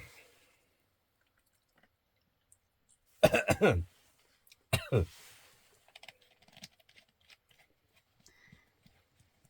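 A man's voice makes two short non-word vocal sounds that fall in pitch, about three and five seconds in, followed by faint small clicks and eating noises as the ramen is eaten.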